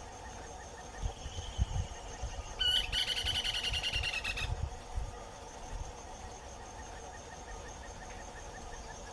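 Short-crested flycatcher (Myiarchus ferox) calling: a faint lead-in note, then a sharp start about two and a half seconds in and a fast rolling trill that lasts nearly two seconds before it stops.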